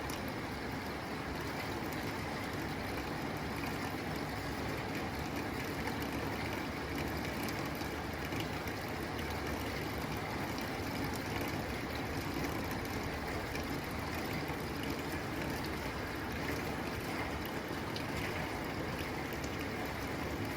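Steady rain pattering on a tin roof: an even wash of rain noise with faint scattered ticks of drops on the metal.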